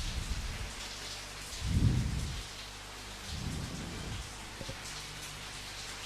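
Steady rain falling, with low rumbles of thunder: a brief one at the start, the loudest about two seconds in, and a weaker one around three and a half seconds.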